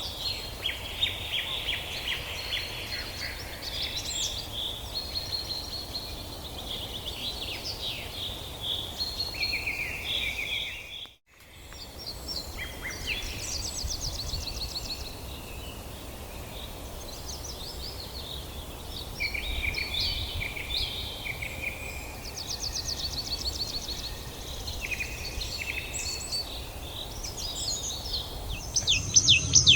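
Several songbirds chirping and trilling over a low, steady outdoor rumble, with a brief drop to silence about eleven seconds in.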